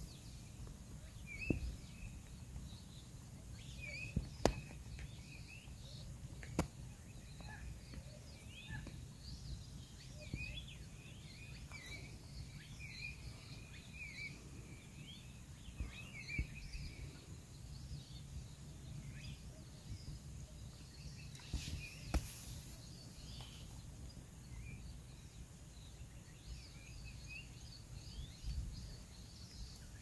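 Small birds chirping and calling at intervals, with a steady low rumble underneath and a few sharp clicks.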